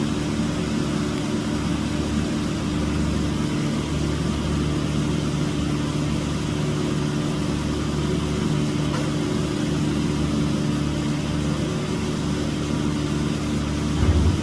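Car engine idling with a steady, even low hum, and a brief low thump near the end.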